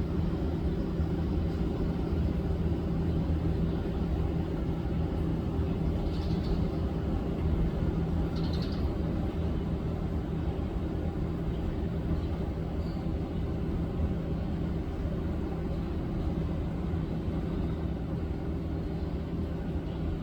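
Steady low rumble with a constant hum, like distant traffic or machinery, with two faint short high chirps about six and eight and a half seconds in.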